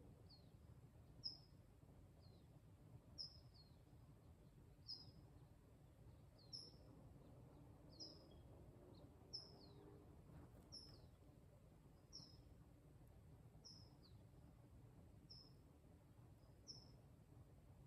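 Faint birdsong: a bird repeats a short, high, down-slurred chirp about once a second, over a low background rumble.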